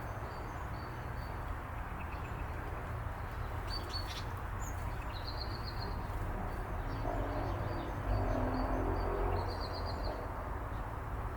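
Small songbirds chirping, with a few short high trills, over a steady low background rumble that swells a little about eight seconds in.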